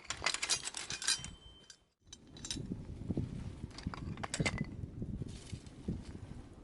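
A quick run of light, sharp clinks from hard objects being handled, lasting about two seconds. After a brief break, a stretch of irregular knocks and clatter follows.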